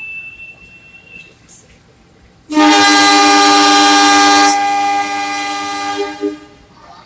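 A short shrill whistle, then a diesel locomotive's horn sounding one long blast of about four seconds: the departure signal (semboyan 35) given just before the train pulls out. The horn is loudest for its first two seconds, then a little softer until it cuts off.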